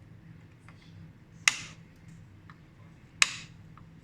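Side cutters snipping the soldered leads of new capacitors on a TV power board: two sharp clicks, about a second and a half in and again past three seconds.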